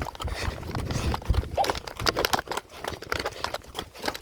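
Footsteps walking over rough outdoor ground: an irregular run of crunching, clicking steps over a low rumble on the microphone.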